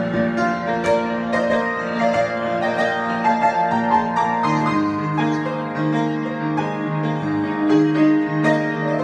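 Solo piano improvisation: held chords under a melody line, with low chords repeated in a steady pulse from about halfway.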